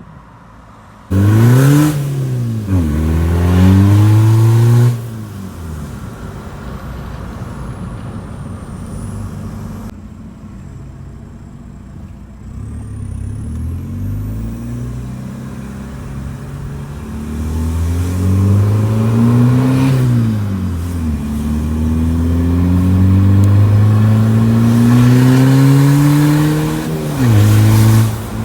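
Volkswagen Jetta engine accelerating hard, its pitch climbing and then dropping back sharply at each gear change or throttle lift. There is a quieter cruising stretch in the middle before it pulls up through the revs again.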